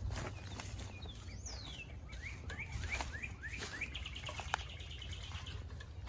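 A songbird singing: a falling whistle, then a run of short rising chirps, then a fast trill from about four seconds in. Under it are a low rumble and a few light crackles.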